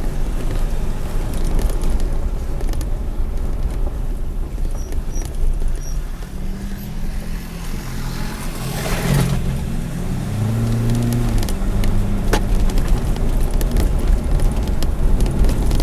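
A car driving, heard from inside: a steady engine and road rumble, with the engine note wavering up and down for a few seconds about halfway through.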